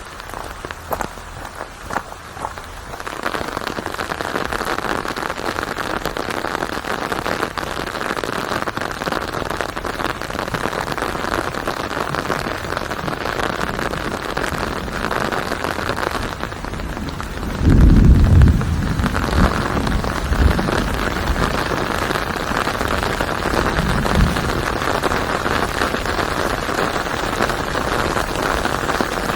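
Rain: scattered separate drops for the first few seconds, then a steady heavy downpour hissing on a surface. About two-thirds of the way in comes a brief deep rumble, with a fainter one a few seconds later.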